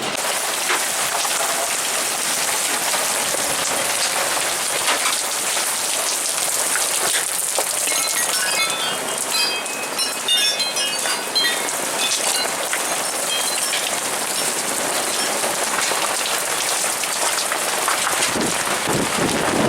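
Rain falling steadily, a dense hiss of drops. A run of short, high chirps about eight to twelve seconds in.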